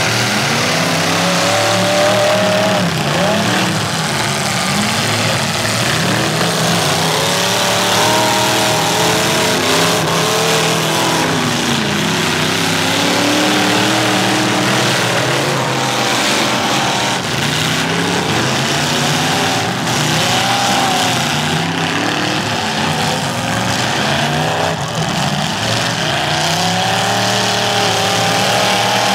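Several demolition derby cars' engines revving at once, their overlapping notes rising and falling again and again.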